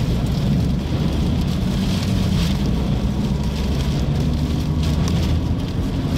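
Steady, loud rumbling noise of rain and wind on a car creeping forward, heard from inside the car.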